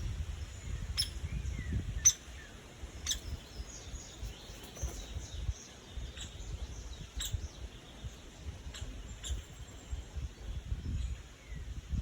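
Birds chirping in short, high calls, with sharp clicks or taps every second or so and an uneven low rumble underneath.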